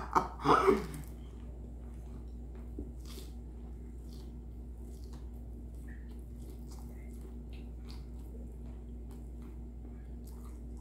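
A bite into a breaded rice hot dog in the first second, then faint closed-mouth chewing with small scattered clicks over a steady low hum.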